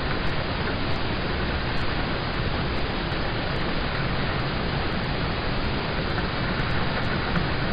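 Steady, dense rain falling on a car, heard from inside the car.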